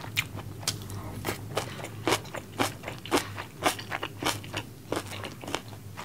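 Close-miked chewing of crunchy food, a quick run of sharp crunches about three times a second.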